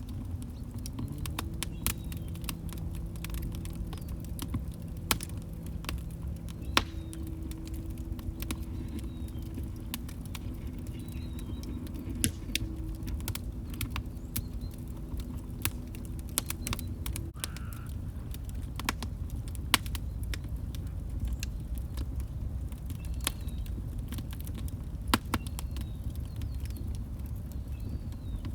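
Log fire crackling, with sharp pops and snaps scattered throughout over a low steady rumble. A faint low steady tone sits under it from about a second in until just past the middle.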